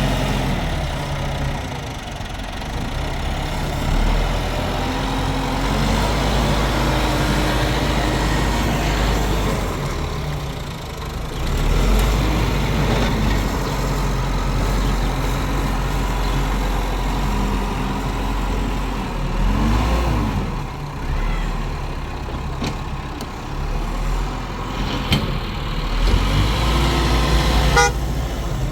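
Engine running steadily, with its speed briefly rising and falling about two-thirds of the way through and again near the end.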